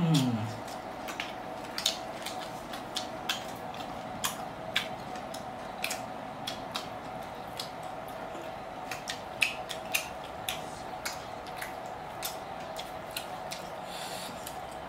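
Close-up eating sounds: chewing and wet mouth smacks of people eating fried chicken, heard as many short, sharp clicks at an irregular pace over a steady hum.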